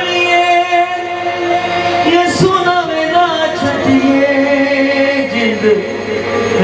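A devotional song: a voice sings long held notes over instrumental accompaniment, moving to a lower held note about four seconds in.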